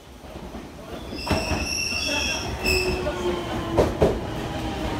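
IR Ishikawa Railway 521 series electric multiple unit pulling into the station. From about a second in, its wheels give a high-pitched squeal for a second and a half as it slows. Then a few sharp wheel clacks over the rail joints as the cars pass close by.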